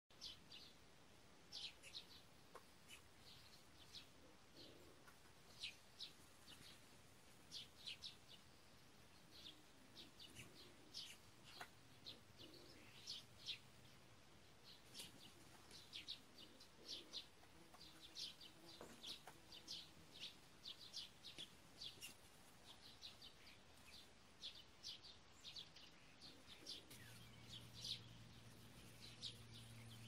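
Faint birds chirping, many short high calls repeated throughout. A low steady hum comes in near the end.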